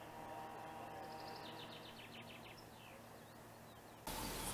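Faint outdoor background with a small bird's call about a second in: a quick run of about ten short, high chirps. Near the end the background suddenly jumps louder.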